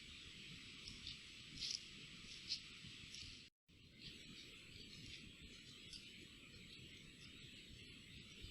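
Faint trail-camera forest ambience: a steady hiss with a thin, high electronic whine under it, and a few short, high chirps near 2 and 2.5 seconds in. The sound cuts out completely for a moment about three and a half seconds in, where one camera clip is spliced to the next.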